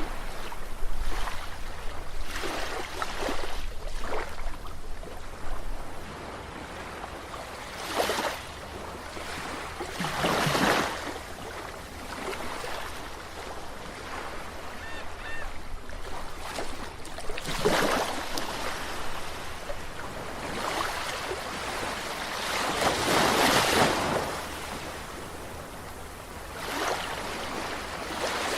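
Sea waves breaking and washing ashore in irregular surges every few seconds, each one swelling and then falling away.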